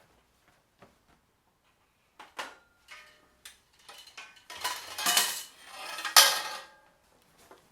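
Small hard objects clinking and clattering as they are handled and set down: a few light clicks at first, then a dense run of clinks and rattles past the middle, loudest in two peaks about a second apart.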